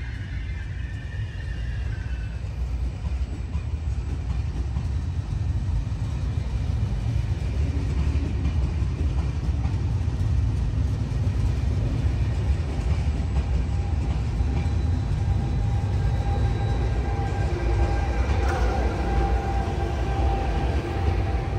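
Double-deck electric regional train rolling slowly along the platform: a steady low rumble of wheels on rail that grows a little louder over the first few seconds. In the later part, faint steady humming tones and a single click join the rumble.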